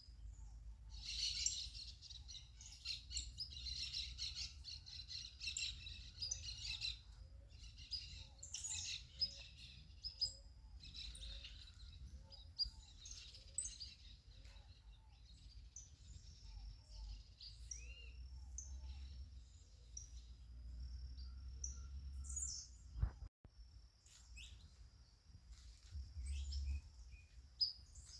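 Several wild birds chirping and singing at once, with many overlapping calls and trills that are densest in the first few seconds, over a steady low rumble. There is a single sharp click late on.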